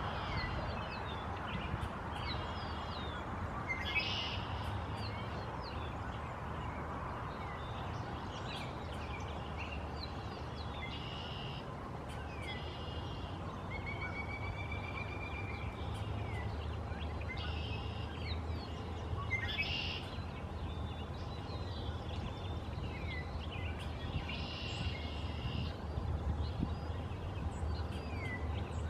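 Birds calling: short chirps and brief calls a few seconds apart, over a steady low background rumble.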